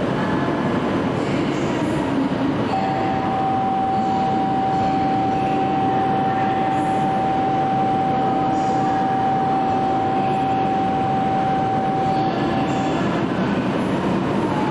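Steady noise of an E5 series Shinkansen train standing at a station platform. A single steady high tone starts a few seconds in and holds for about ten seconds before stopping.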